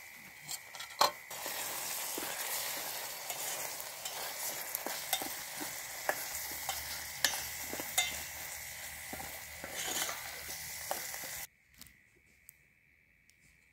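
Chopped tomato and onion frying in a little oil in a steel pot on a portable butane gas stove, sizzling steadily while a metal spoon stirs, scraping and clinking against the pot. The frying cuts off suddenly near the end, leaving quiet with a few faint clicks.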